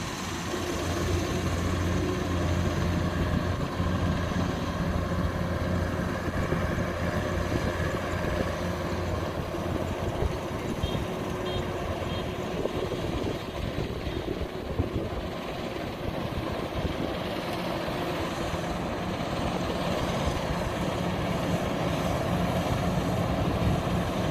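Kubota DC93 rice combine harvester running steadily in the field, with a continuous low engine hum.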